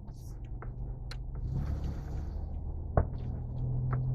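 Truck engine running with a low steady hum that swells slightly partway through, with a few faint clicks and one sharp click about three seconds in.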